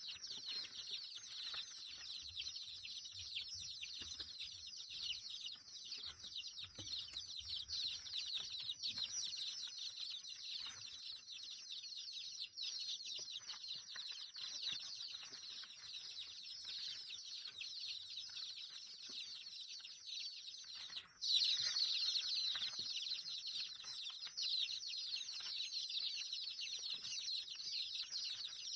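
A dense, continuous chorus of many small birds chirping at once, a flock calling over one another with no pause. About 21 seconds in it drops out for an instant, then comes back a little louder.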